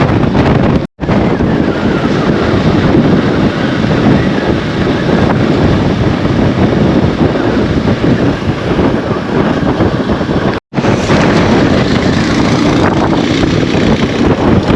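Wind buffeting the microphone on a moving motorbike, over engine and road noise. The sound cuts out for an instant twice, about a second in and about two-thirds of the way through.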